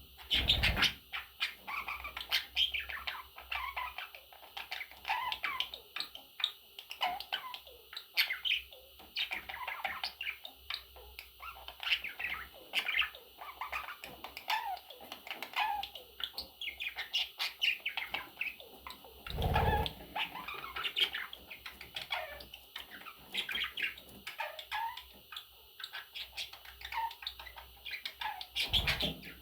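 Pet budgerigars chirping and warbling in a busy, continuous chatter of short calls, with a couple of brief dull thumps.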